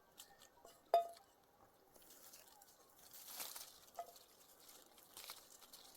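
Faint rustling and crunching, like leaves, twigs or fruit being handled, loudest in the middle. About a second in there is a short, sharp pitched sound, with a fainter one near four seconds.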